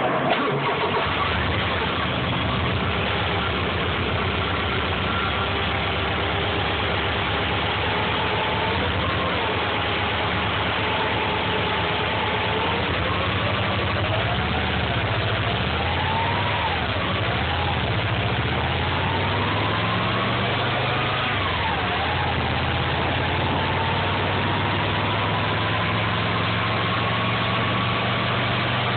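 Subaru EJ22 2.2-litre flat-four engine running, heard from inside the car, with a whining tone that drifts up and down in pitch. A click sounds at the very start.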